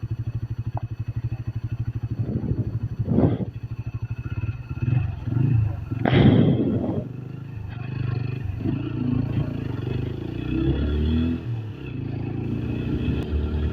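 Motorcycle engine running on the road, a steady fast low throb at first, then changing, with a louder rush of noise about six seconds in.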